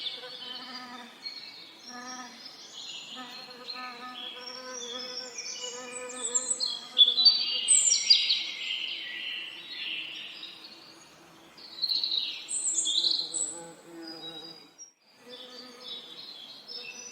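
Several songbirds singing and chirping, loudest about halfway through, over the low buzzing hum of bees that swells and fades as they fly about. Near the end everything cuts out for a moment.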